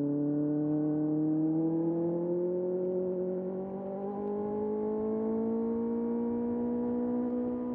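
Kawasaki ZX6R's inline-four engine under steady throttle, its pitch climbing slowly for about six seconds and then holding level.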